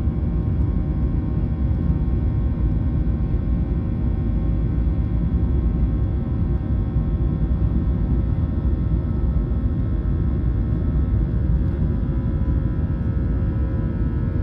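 Boeing 737-800's jet engines heard from inside the passenger cabin: a loud, steady low rumble with a faint whine of several steady tones above it.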